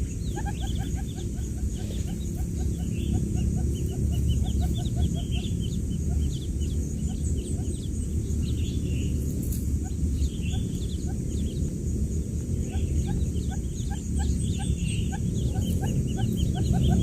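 Newly hatched quail chicks peeping: many short, rapid peeps overlapping throughout, over a steady low hum.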